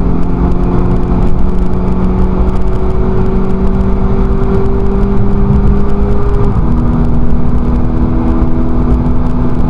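Volkswagen Scirocco race car's engine heard from inside the cabin, pulling under throttle with its pitch climbing slowly, then dropping suddenly about six and a half seconds in as it shifts up a gear and carries on pulling.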